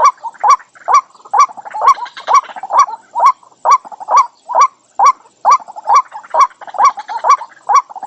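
White-breasted waterhen calling: a steady, regular series of loud, short croaking notes, a little over two a second, each rising slightly in pitch.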